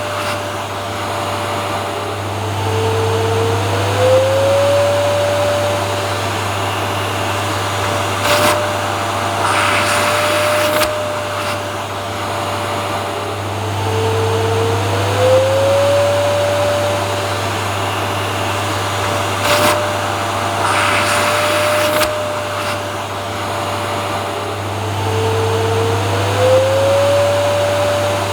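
Vacuum cleaner running steadily with a low hum. Its motor whine dips slightly and glides back up about every eleven seconds, with brief hissy surges of air in between.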